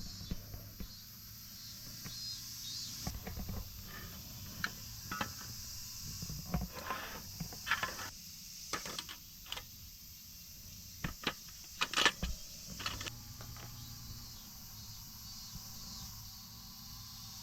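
Irregular clicks, taps and short rustles of objects being handled, thickest in the middle and loudest about twelve seconds in, over a steady chirring of insects.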